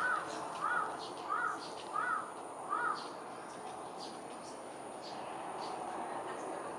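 A bird calling five times in a quick, even series, each note a short rise and fall in pitch, over faint repeated high chirps.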